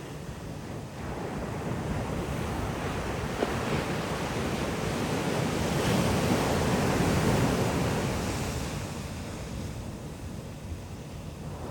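Ocean surf: a wave breaks and washes up the beach, swelling to its loudest about halfway through and then fading, with some wind on the microphone.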